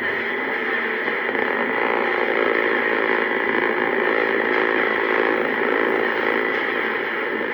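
Modular synthesizer playing a steady, dense droning patch: many held tones layered into a buzzing, noisy hum with no clear beat.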